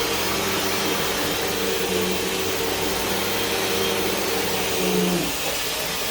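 Hoover WindTunnel 2 Whole House Rewind upright vacuum running with a steady airflow hiss and motor hum. The hum's tone drops out about five seconds in while the rushing air carries on.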